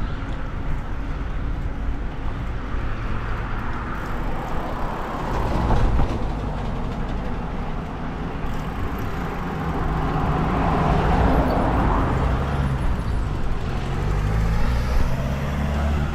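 Road traffic passing: a continuous rumble of vehicles that swells twice as vehicles go by, about a quarter and two-thirds of the way through.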